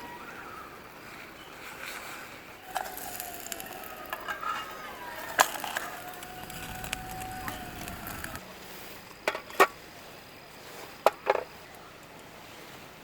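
Metal camp cookware handled during cooking: scattered sharp clicks and knocks, with faint scraping and sliding sounds in the first half.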